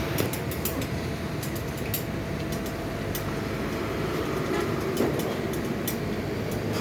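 Short, sharp clicks and taps of hand tools working on a motorcycle's steering head, scattered irregularly, over a steady background rumble.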